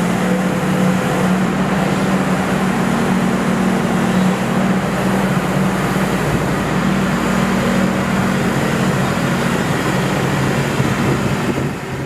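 Yuchai YC80-9 eight-ton crawler excavator's diesel engine running steadily while the machine works, a continuous low drone, starting to fade out at the very end.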